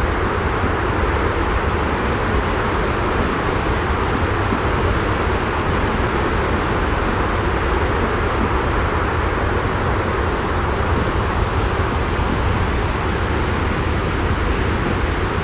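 Steady, even rushing noise that does not change, heaviest in the low and middle range: a continuous white-noise sleep-sound bed.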